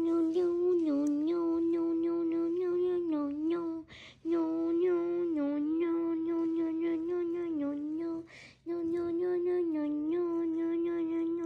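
A high voice humming one droning, nearly unchanging note, dipping slightly in pitch now and then while the mouth shape shifts. It breaks off briefly about four seconds in and again about eight and a half seconds in.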